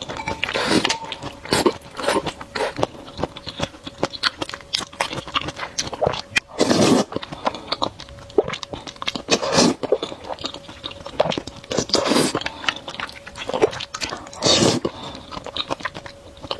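Close-miked mouth sounds of a person eating spicy noodles: wet chewing and crunching with many small clicks, and louder bursts every two to three seconds.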